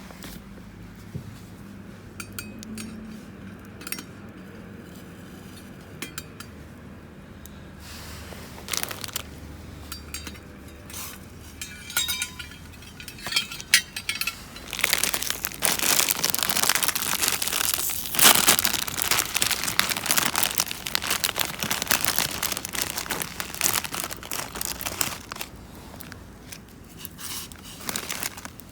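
Crinkling and rustling of something being handled, with scattered light clicks and clinks. It starts sparse about eight seconds in and is busiest through the middle to late part.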